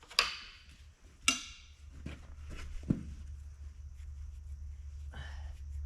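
Two sharp metallic clanks about a second apart, each ringing briefly, then a lighter knock and a short scrape, as tools or engine parts are handled on metal; a steady low hum runs underneath.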